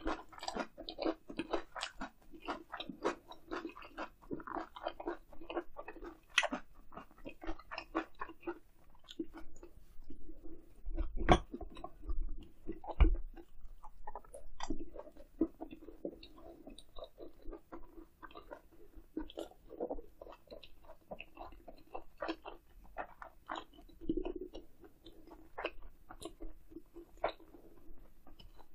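Close-miked chewing and biting of grilled eel: steady wet smacks and crunchy clicks of eating. Two louder dull knocks stand out about eleven and thirteen seconds in.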